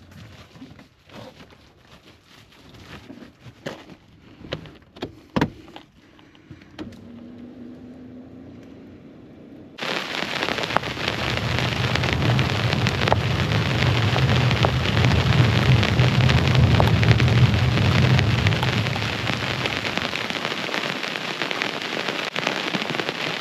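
A few scattered knocks and clicks. Then, about ten seconds in, heavy rain suddenly fills the sound, pouring down hard, with a long low rumble of thunder rolling under it for several seconds before easing.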